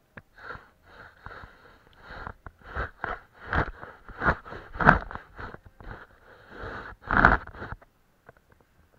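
Paintbrush strokes on paper: a run of short, irregular swishing strokes, a few of them louder towards the middle, stopping shortly before the end.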